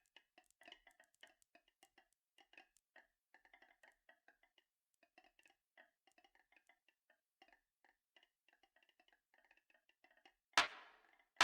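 Marbles running down a marble run track: a steady patter of small, irregular clicks with a slight ring as they roll and knock along the track, then a loud clatter about ten and a half seconds in.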